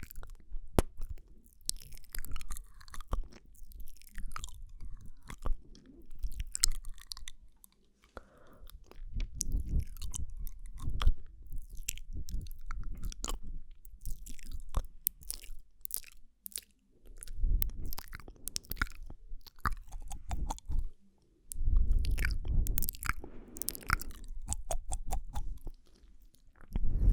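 Close-miked ASMR mouth sounds: a dense, irregular run of sharp wet clicks and smacks from the lips and tongue, with a few brief pauses.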